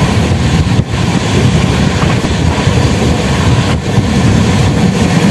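Express passenger train running at speed, heard from on board: a loud, steady rumble of wheels on the rails.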